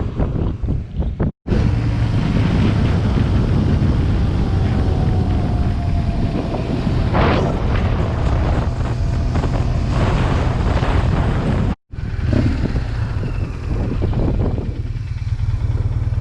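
BMW R1200GS boxer-twin engine running steadily while the bike is ridden at road speed, with wind rushing over the microphone. The sound drops out briefly twice, about a second and a half in and again about twelve seconds in.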